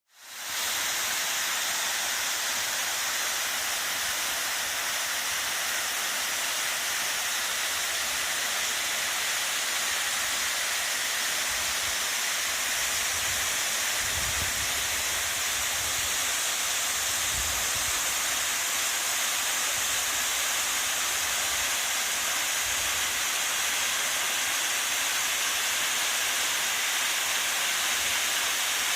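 Waterfall: a steady, loud rush of falling water with a hissing spray, with some low rumbles about halfway through.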